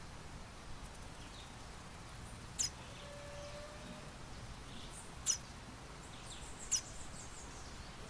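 A baby bird giving three short, very high-pitched peeps, spaced a second or two apart, over faint background hiss.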